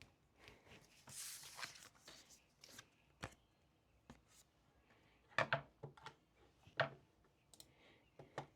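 Desk handling sounds: a short papery rustle about a second in, then scattered sharp taps and clicks, the loudest a quick pair about five and a half seconds in and another near seven seconds.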